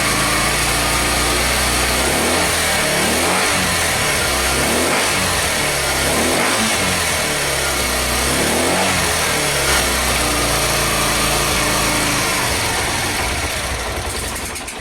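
Suzuki TU250X's single-cylinder four-stroke engine running and revving up and down several times, then settling and fading out near the end. It is running again on a replacement CDI box.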